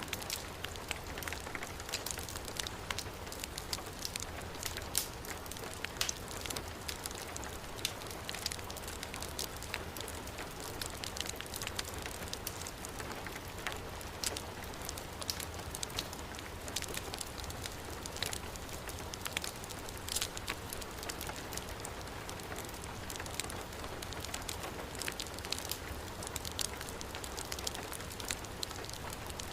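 Heavy rain falling steadily, mixed with a wood fire crackling, its sharp pops scattered irregularly through the steady hiss.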